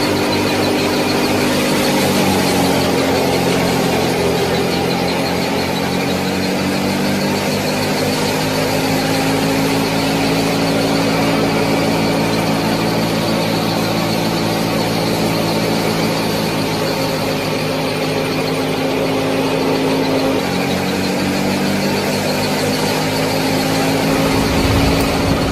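Small electric motor of a miniature model tractor or thresher running steadily with a humming whine. Its pitch dips slightly about two seconds in and again near twenty seconds, as if under load.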